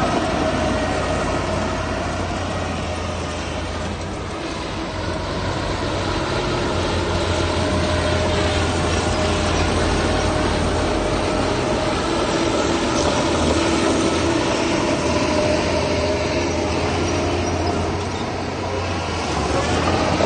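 Heavy diesel earthmoving machinery working, with a steady engine drone and a constant whine over it, dipping slightly about four seconds in and again near the end.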